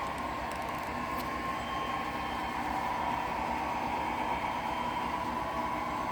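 HO-scale model train running steadily on the layout's track: the even whir of its small motor with wheel noise on the rails.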